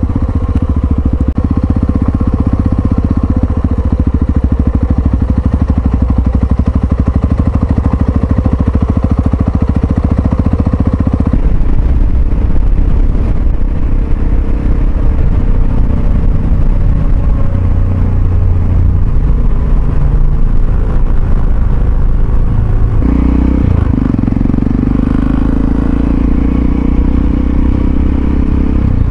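Yamaha XT660Z Ténéré's single-cylinder engine running steadily under way, its note changing about eleven seconds in and again about twenty-three seconds in.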